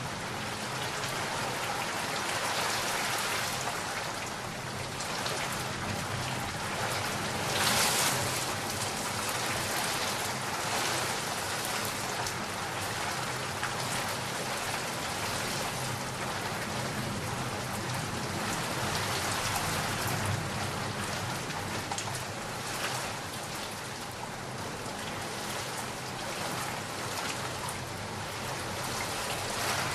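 Steady rain falling, with a brief louder surge of rain about a quarter of the way in.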